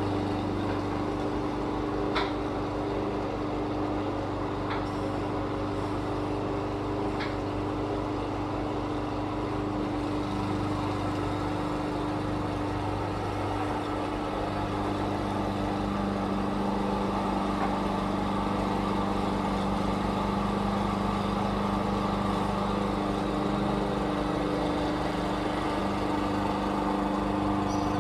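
Lawn mower engine running steadily at constant speed, an even drone with a few light clicks in the first several seconds.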